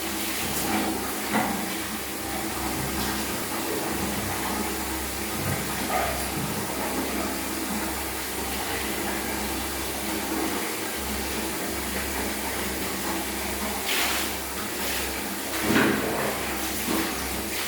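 Water running steadily, as from a tap or shower while a kitten is bathed, with a few brief louder splashes or knocks near the end.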